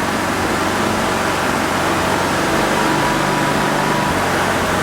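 Steady rush of strong wind mixed with the hum of a DJI Mavic 2 Pro's propellers as it holds against the gusts. An extra higher hum comes in for about a second and a half in the middle.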